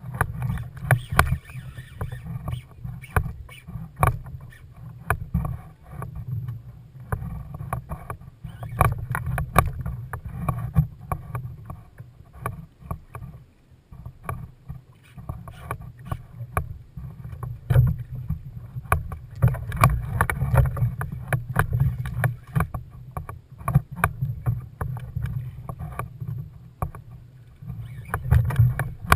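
Kayak on the water: irregular knocks and splashes against the hull over a steady low rumble.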